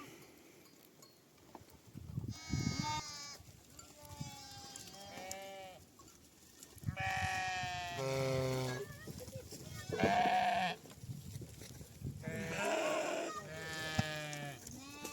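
A flock of sheep bleating: a run of wavering calls at different pitches, some overlapping, from several animals.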